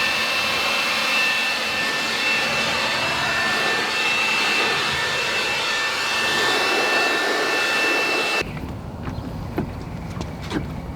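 Car-wash equipment running: a loud, steady hiss with a thin, high, steady whine over it. It cuts off abruptly about eight seconds in, giving way to a quieter low rumble with a few sharp clicks.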